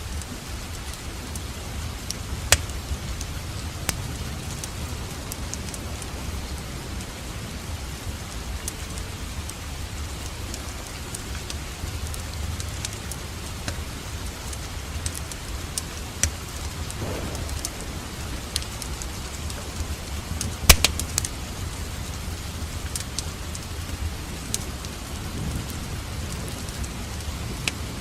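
Steady rain with a low rumble, mixed with a wood fire crackling, giving scattered sharp pops; the loudest pop comes about two-thirds of the way through.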